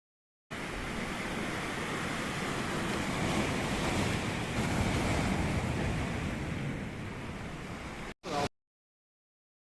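Sea waves washing on the shore, with wind on the microphone. The sound cuts in about half a second in and cuts off suddenly near the end, after a brief snippet.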